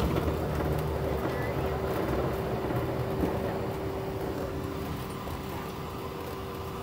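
Cabin noise of a CRJ-900 regional jet on the ground after landing: a steady rumble with one constant engine tone, slowly getting quieter.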